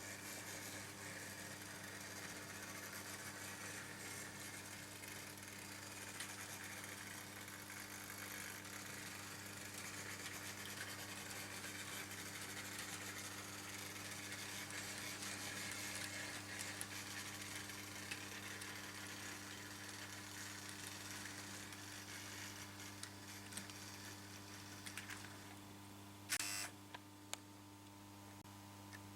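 Märklin H0 model train running on metal M-track: a steady rattling hiss of wheels and motor over a low constant hum. The rattle eases off near the end, followed by a sharp click.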